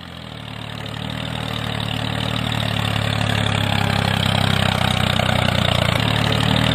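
Tractor engine idling with a regular chugging pulse, fading in over the first couple of seconds and then running steady.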